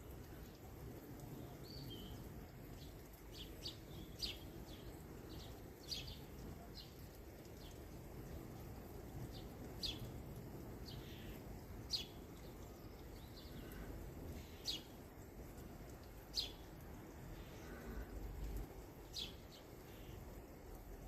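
Small birds giving short, sharp, slightly falling chirps, one every second or two, over a faint steady low background rumble of outdoor ambience.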